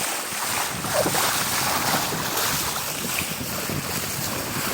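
Water rushing and splashing along the hull of a Laser sailing dinghy at speed, with wind buffeting the microphone.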